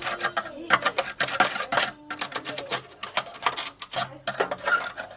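Rapid, irregular clicking and clattering of hand tools and small hard parts being worked on an electrical panel's fuse holder.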